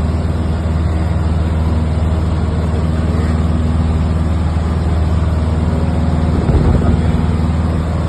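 Aeroplane engine drone heard inside the cabin in flight, a steady low hum with a brief louder rumble about six and a half seconds in.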